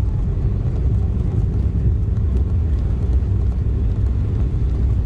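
Steady low rumble of an Embraer E175 jet airliner heard inside the passenger cabin: engine and airflow noise with no distinct tones or events.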